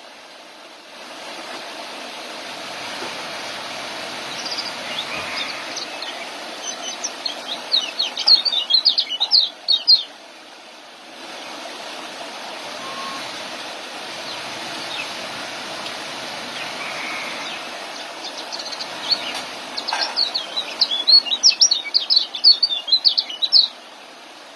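Young kecial songbirds giving rapid, high, stuttering chirps (the 'ngeriwik' call used as tutor song). The chirping comes in two bursts, about a third of the way in and again near the end, over a steady hiss.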